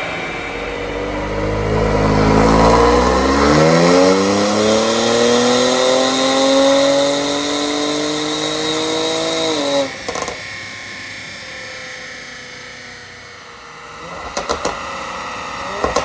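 Kia Stinger's twin-turbo 3.3-litre V6 accelerating hard, its note rising steadily for about six seconds. About ten seconds in it cuts off abruptly on lift-off with a short crackle from the exhaust. A few more bursts of exhaust pops come near the end, from a tune set up for overrun pops and bangs.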